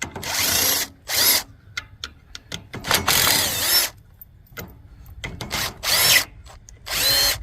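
A power drill backing out bolts in about five short bursts, its motor whirring up and down in pitch each time, with small clicks and clinks in between.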